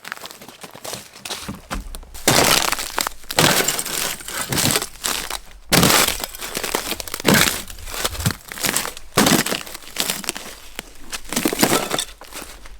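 Footsteps crunching through dry leaf litter and twigs on the forest floor, a loud crunch about every second, starting about two seconds in.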